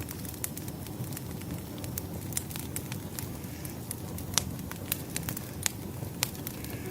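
Firewood burning in a fireplace, crackling: irregular sharp pops and snaps over a steady low rush of the flames, with one louder snap about four and a half seconds in.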